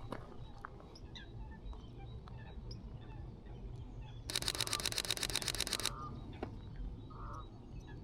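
Sony A6700 camera shutter firing a rapid burst of clicks for about a second and a half, around halfway through. Faint bird calls sound in the background.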